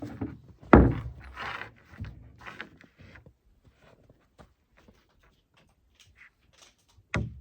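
A chalk line snapped against a wooden floor sheet with one sharp slap about a second in, followed by a couple of seconds of scraping and rustling as the line is handled. Near the end, a run of evenly spaced sharp knocks begins, about three a second.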